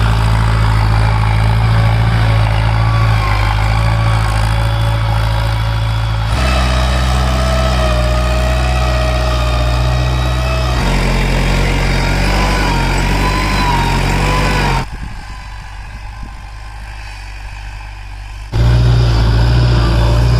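Balwan 500 tractor's diesel engine running steadily while pulling a five-tyne cultivator through a field. The engine note shifts abruptly a few times. About two-thirds through it turns quiet and thin for a few seconds, then comes back at full strength.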